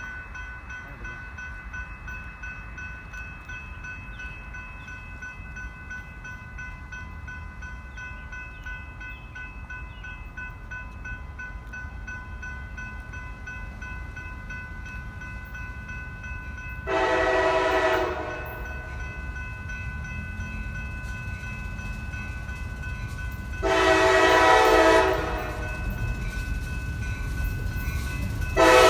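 Approaching train's locomotive horn, sounding two long blasts and starting a third right at the end, over the rumble of the oncoming train. A steady high ringing, likely a grade-crossing bell, runs under it and fades out shortly before the end.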